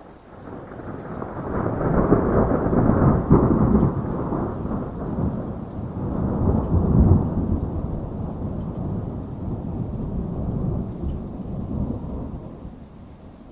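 A long roll of thunder over steady rain. The rumble builds over the first couple of seconds, peaks twice, then slowly dies away near the end.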